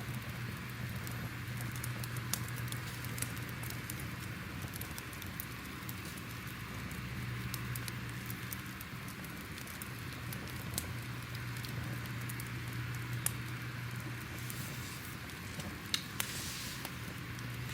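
Fire crackling: a steady hiss with many small, irregular pops and snaps.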